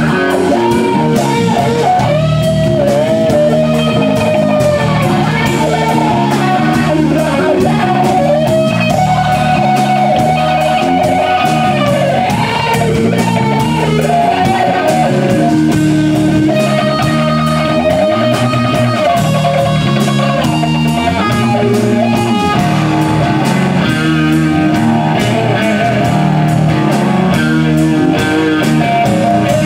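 Electric guitar solo over drums, in a blues-rock style: long held notes that bend up and down with a wide vibrato.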